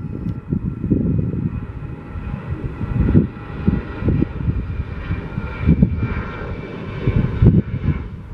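Jet airliner engines running with a steady high whine, under low gusts of wind buffeting the microphone.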